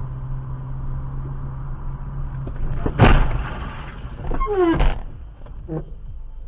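Dash-cam recording of a car on the road with a steady engine and road hum, then a loud bang about three seconds in and a second bang just before five seconds, with a brief falling squeal between them: a collision.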